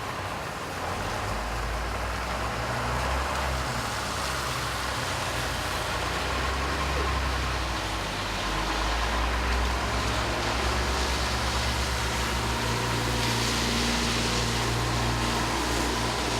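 Road traffic in the rain: motor vehicle engines running with a steady low hum under a constant hiss of rain.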